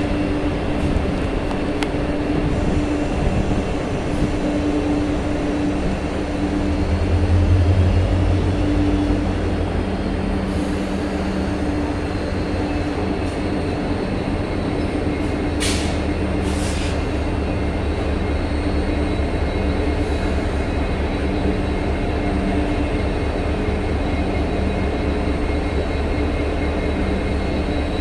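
Vande Bharat Express train coach with a steady low rumble and hum throughout. Two short hisses come about halfway through.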